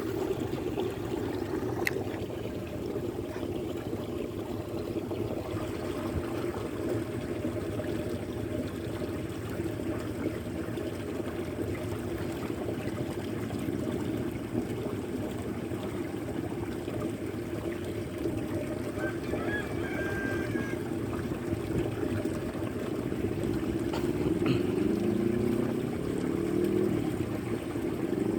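Steady rush of strong wind and choppy water at a high tide. Near the end a motor's pitch slides up and down over it.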